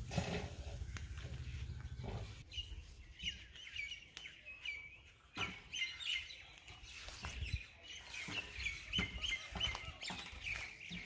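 Small birds chirping over and over in short high calls, starting about two seconds in, with a low rumble for the first two seconds and a few scattered knocks.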